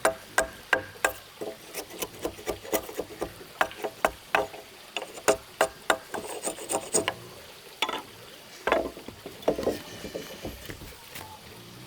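A hand tool working wood in quick repeated strokes, about three a second, becoming sparser and irregular after about seven seconds.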